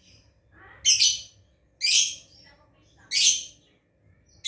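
Lovebird giving short, harsh, shrill screeching calls, three about a second apart and a fourth starting at the very end: a bird still learning the long 'ngekek' chatter.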